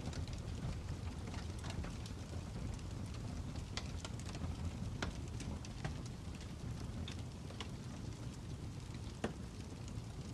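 Fire crackling: a steady low rumble with scattered sharp pops and snaps, one louder pop near the end.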